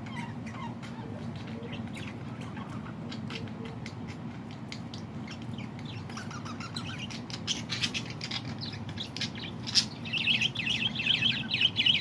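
Birds chirping: faint, scattered calls and clicks at first, then a burst of loud, rapid high-pitched chirping about ten seconds in, over a steady low hum.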